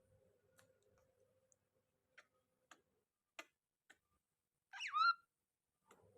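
A few faint scattered clicks, then about five seconds in a baby monkey gives one short high squeal made of several quick rising notes.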